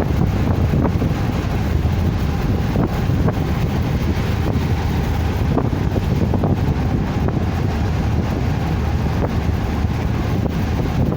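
Steady low rumble of a car on the move, road and wind noise buffeting the microphone, with a few faint ticks.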